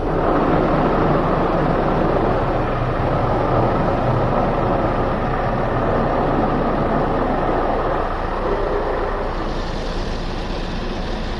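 Automatic car wash running, heard from inside the car: a loud, steady rushing of the wash machinery and water against the car. Near the end the noise thins to a higher hiss.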